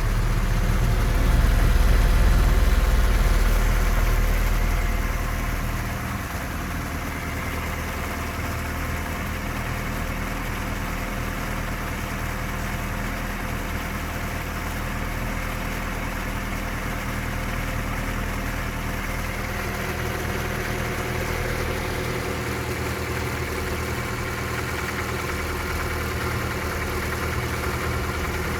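Toyota 3S-FE four-cylinder engine idling, with a knock coming from around cylinders 3 and 4, near the camshafts or lower. The owner has already checked the valve clearances, cam gear and camshaft journals, and takes the knock for a known trait of the 3S engine family. It is louder for the first few seconds, then runs steadily.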